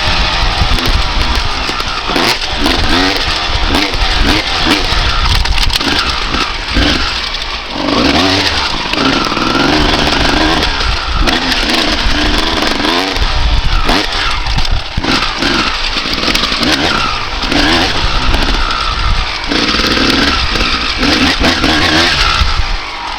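1995 Honda CR250R's single-cylinder two-stroke engine being ridden hard, its revs rising and falling over and over as the throttle is opened and closed.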